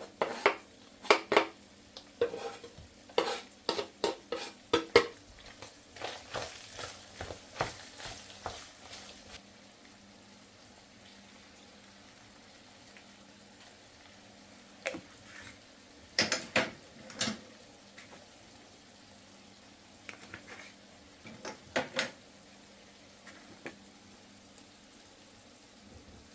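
Kitchen utensils knocking, clinking and scraping against a pot or pan while food is stirred. The knocks come thick and fast for the first five seconds, a brief hissing scrape follows, and the rest is scattered clinks.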